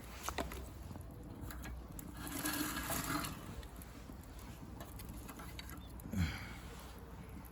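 Wood fire of dry branches and bamboo crackling with scattered sharp snaps, a hiss of about a second a couple of seconds in, and a louder short sound falling in pitch about six seconds in.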